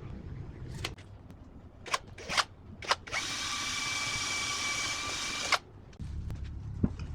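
A few sharp knocks, then a small power tool's motor runs steadily for about two and a half seconds with a whine, starting and stopping abruptly.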